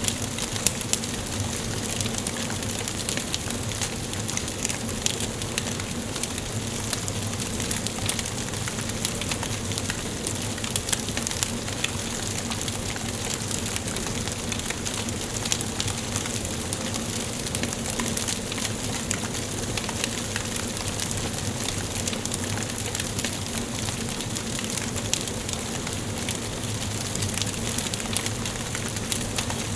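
Wood fire burning in a fireplace: a steady hiss with dense, irregular crackles and small pops from the burning logs.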